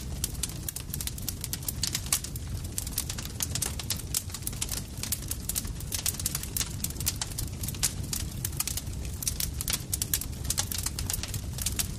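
Campfire burning with dense, irregular crackles and pops over a steady low rumble of the flames.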